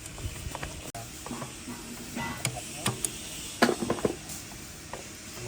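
Hand tools clinking and knocking on the metal parts of a diesel engine during teardown, in scattered irregular strikes, with a cluster of louder knocks a little before four seconds in.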